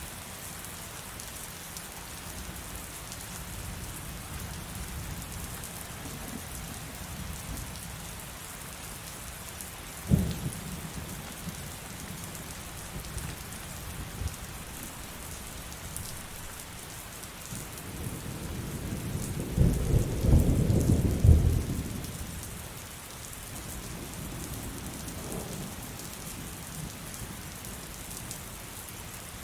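Steady heavy rain, with a sharp thunderclap about ten seconds in and a long rolling peal of thunder past the middle that builds and fades over about five seconds.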